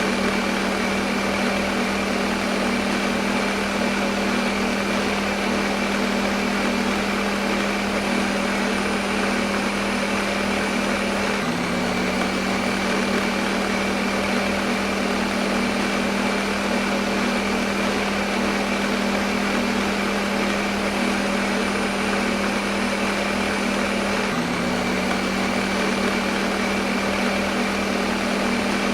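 Electric kitchen blender running continuously at one steady speed: a motor hum over an even whirring rush. Twice the hum briefly hitches and settles back.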